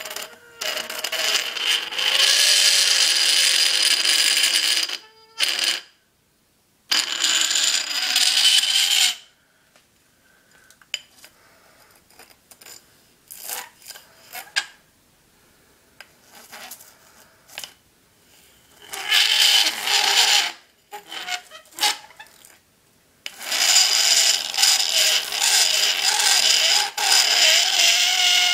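An iron rod pressed against dry ice, squealing with a high, ringing metallic tone in several bursts of a few seconds, with quieter spells of small clicks and scrapes between. The squeal comes from the metal vibrating as the dry ice turns to gas against it.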